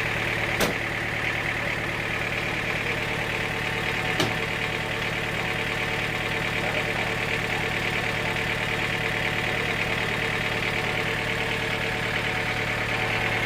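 A sawmill's engine running steadily, a constant hum, with two sharp knocks: one under a second in, another about four seconds in.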